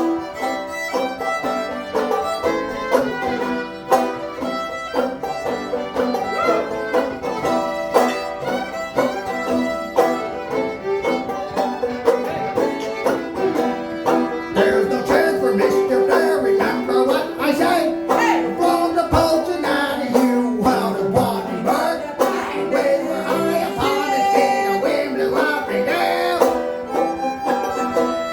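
A string band plays an instrumental passage of a folk ballad without singing. Banjo and fiddle are to the fore, the banjo picking quick notes and the fiddle holding longer tones in the middle of the passage.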